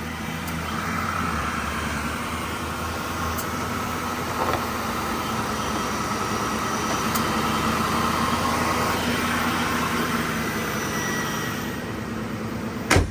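1996 Ford Mustang SVT Cobra's 4.6-litre DOHC V8 idling steadily just after a cold start, sounding like a brand new engine. A sharp knock near the end.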